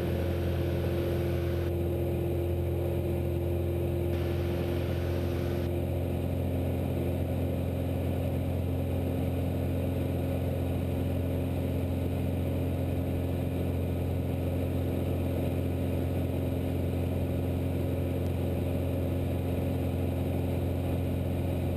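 Cessna 172's piston engine and propeller droning steadily in flight, heard from the cockpit. Two short stretches of added hiss come in the first six seconds, and one tone in the drone steps down slightly in pitch about six seconds in.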